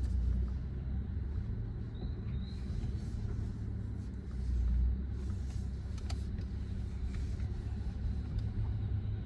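Car engine and road noise heard inside the cabin while driving: a steady low rumble that swells briefly a little before the middle, with a single sharp click about six seconds in.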